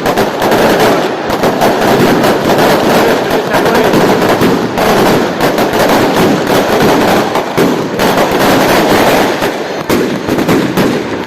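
Fireworks going off in a dense, rapid, unbroken crackle, like a long string of firecrackers, set off at the lighting of a festival bonfire.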